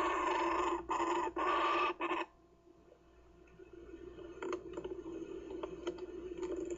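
Kookaburra chick giving harsh, raspy squawks, three in quick succession in the first two seconds, then falling quiet apart from faint scratching and shuffling in the nest.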